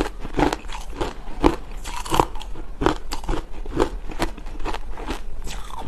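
Chunks of frozen ice being bitten and chewed close to the microphone, a quick run of crisp crunches about every half second.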